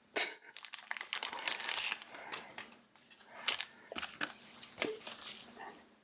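Crinkling and crumpling of plastic card-pack wrappers being handled, a dense run of sharp crackles and rustles that starts suddenly and stops near the end.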